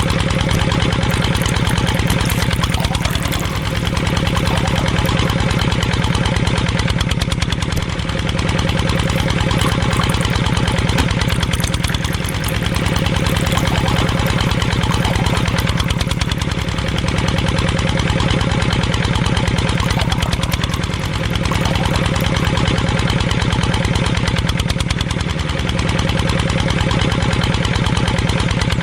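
Small engine running steadily with a fast, even beat, its level dipping slightly about every four seconds.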